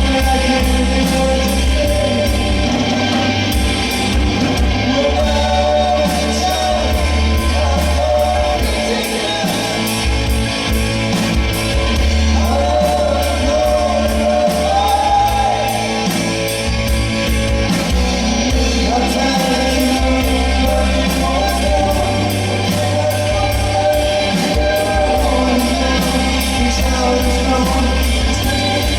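Live rock band playing a song, with singing over electric guitar, bass and a steady drumbeat.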